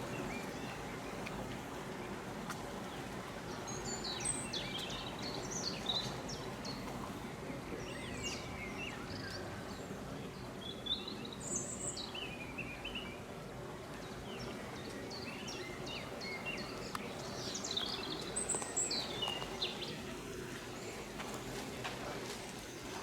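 Small birds chirping and twittering in short high calls, coming in clusters a few seconds apart, over a steady low background noise.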